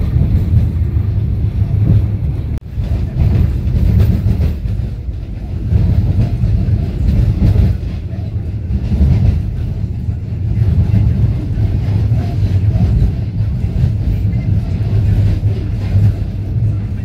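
Passenger train running at speed, heard from inside the carriage: a steady low rumble of wheels on the rails, with a brief click and dip about two and a half seconds in.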